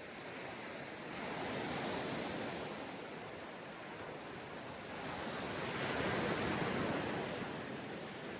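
Ocean waves washing onto a sandy beach, the surf swelling twice, about a second in and again after five seconds, then easing back.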